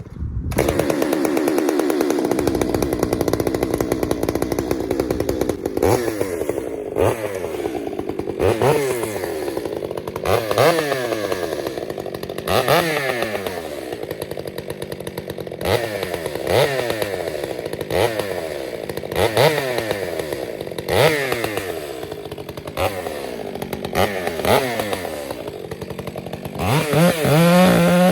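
Stihl MS 462 two-stroke chainsaw running, its engine speed dropping and climbing again about every one and a half seconds, as when cutting into wood with a 25-inch bar. The first several seconds hold a steadier pitch.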